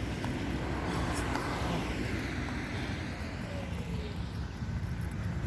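Street traffic noise: a steady rush of car and tyre noise from a residential road.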